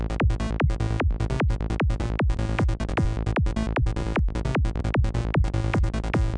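Electronic trance sequence playing from the NI Massive software synthesizer at 150 BPM: a fast, even run of short repeated synth notes, each with a quick downward sweep, over a steady low bass.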